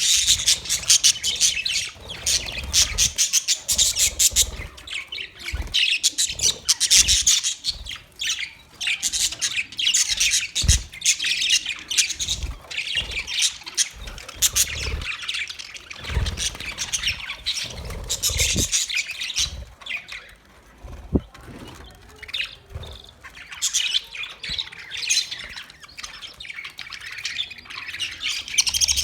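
Budgerigars chirping and squawking continuously, a dense, rapid chatter of many short calls, with a few dull low thumps now and then.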